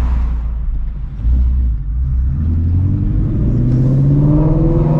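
2016 Shelby GT350's 5.2-litre flat-plane-crank V8 with long-tube headers, rumbling low, then getting louder about a second in, its note rising steadily as the car accelerates.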